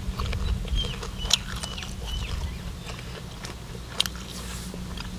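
People chewing food close to the microphone, with wet mouth sounds and a few sharp clicks, the loudest about a second in and again near four seconds.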